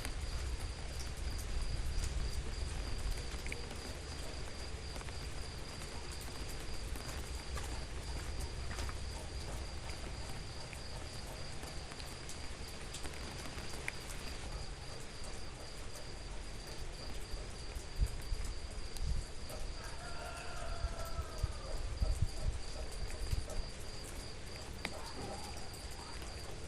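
A steady, high insect trill, cricket-like, runs on without a break over an even hiss and low rumble. A short pitched call breaks in about twenty seconds in.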